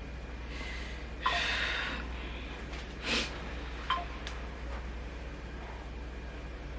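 Breathy puffs of air close to the microphone, one longer and one short, with a couple of light clicks.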